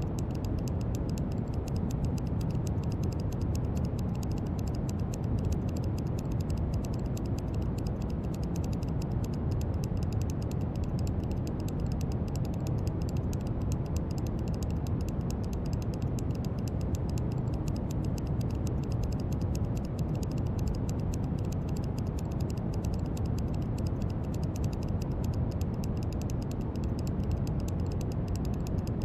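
Steady brown noise: an even, deep rushing hiss, strongest in the low end, with a faint fine crackle in the highs.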